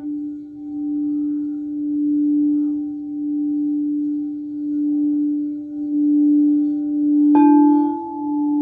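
Singing bowl ringing in one steady low tone that swells and fades every second or two. Near the end a single strike adds brighter, higher ringing tones over it.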